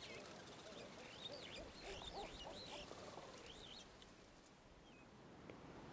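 Faint bird chirps: a run of short high chirping notes in the first three seconds or so, then a few isolated ones, over quiet outdoor background hiss.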